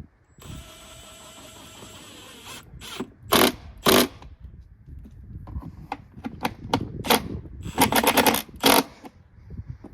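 Tools tightening the mounting bolts on a motorcycle exhaust silencer: a steady whir for about two seconds, then a string of clicks and metal knocks with several short loud bursts.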